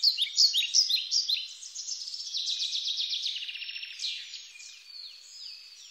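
Birdsong: several small birds chirping and trilling at once in quick, overlapping high runs of falling notes, busiest in the first second or so and thinning out towards the end.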